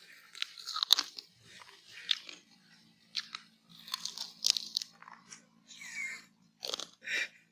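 A man biting into charred chicken tikka pieces on a bamboo skewer and chewing them close to the microphone: a run of short, crunchy bites and chewing sounds.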